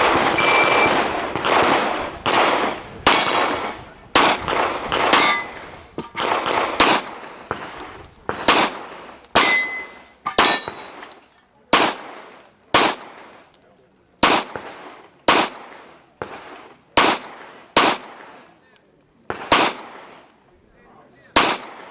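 Pistol shots fired by a competitor shooting a practical-shooting course of fire. There are about thirty shots, many in quick pairs, with short pauses between groups. Each shot echoes briefly.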